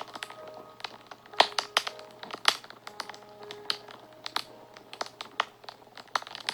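Fire crackling and popping in irregular sharp snaps, the loudest about one and a half and two and a half seconds in, over soft background music with quiet held notes.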